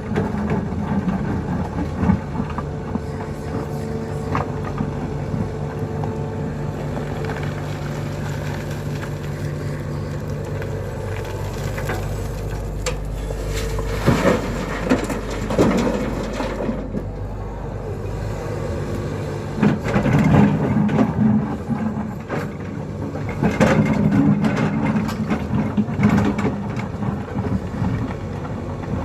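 Diesel engine of a hydraulic excavator running steadily under load, its note shifting about halfway through. Bursts of clattering and knocking come near the middle and toward the end as the machine loads a truck.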